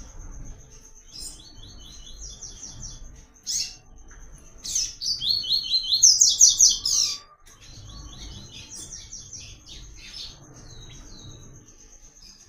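Papa-capim seedeater singing: quick runs of high, chirping notes, loudest and fastest about five to seven seconds in, then softer phrases. A steady high pulsing tone sounds underneath.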